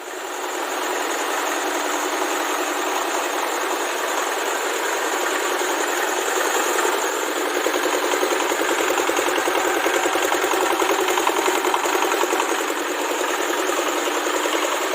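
Mahkota KD-580 S rice milling machine running steadily, a loud, dense mechanical noise with a rapid, even pulsing.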